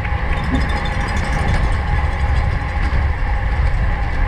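Wind buffeting a bike-mounted action camera's microphone at racing speed: a steady, heavy rumble with the hiss and hum of the bicycle rolling underneath.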